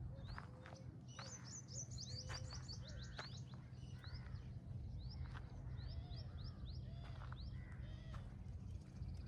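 Birds chirping with short, repeated rising calls, including a quick run of about eight chirps a second between one and three seconds in, over a steady low rumble.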